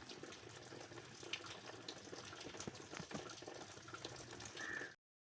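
Rain falling, a faint even patter with many scattered sharp drips, and a brief high tone near the end; it cuts off abruptly about five seconds in.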